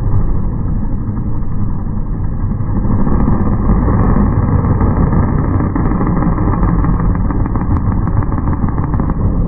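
Monster truck engine running loud with a deep, steady rumble, heard through a muffled recording with a few faint crackles over the middle of the stretch.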